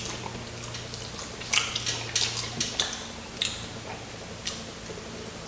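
Close-up crunching of crispy fried chicken coating being chewed: a run of short, sharp crackles, clustered in the middle and trailing off with one more near the end.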